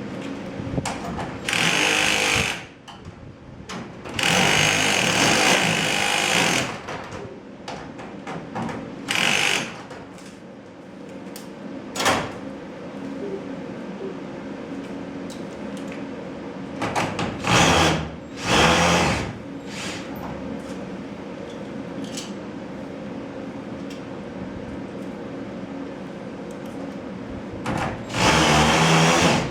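Power drill driving screws into garage door hardware in about six short bursts, each one to two and a half seconds long, with a steady low hum between them.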